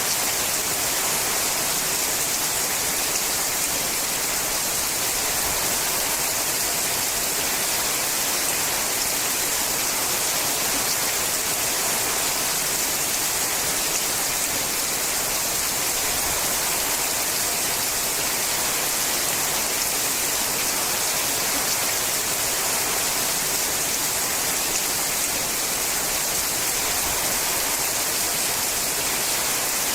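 Steady rain falling on a sheet-metal roof, a dense, even hiss that holds unchanged throughout.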